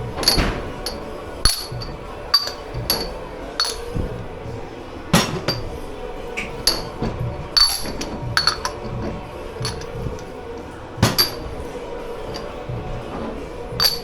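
Crockery and glassware clinking and knocking as they are handled and stacked: a dozen or so sharp clinks at irregular intervals, each with a brief bright ring.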